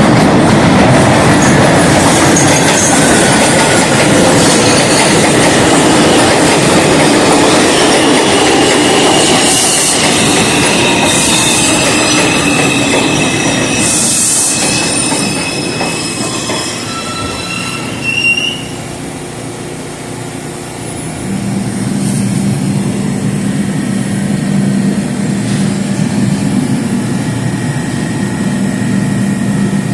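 R142 subway train running loudly through the station, its steel wheels squealing on the rails in a high whine between about 8 and 18 seconds in. The noise then falls away and a steady low hum sets in about 21 seconds in.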